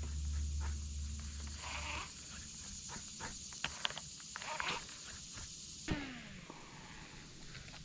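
Insects buzzing steadily in a high, even drone that fades about six seconds in. A low hum stops about two seconds in, and there are scattered small clicks.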